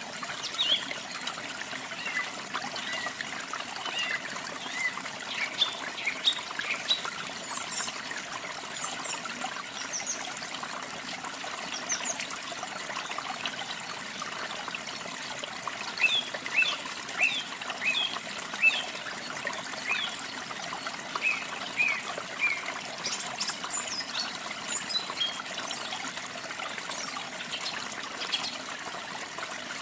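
Steady trickling of running water, with small birds chirping in short high calls throughout, in quick dense runs during the second half.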